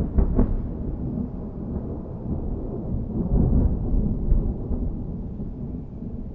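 Thunder rolling in a long low rumble, loud at first and slowly fading, with a swell about halfway through.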